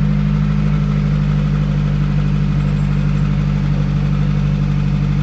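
Steady low drone of a car's engine running in slow traffic, heard from inside the car's cabin.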